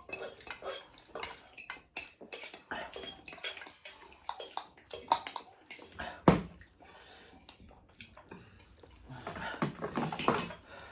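Kitchen utensils and dishes clattering: a run of short clinks and knocks, with one louder knock about six seconds in.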